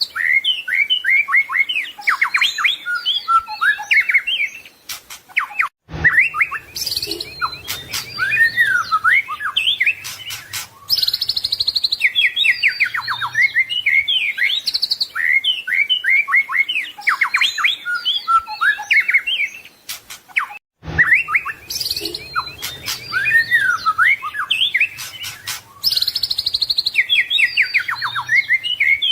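White-rumped shama (murai batu) singing a rapid, varied song of whistles, trills and chirps, filled with mimicked calls of other birds. The song stops briefly about six seconds in and again near twenty-one seconds, and the same passage repeats about every fifteen seconds.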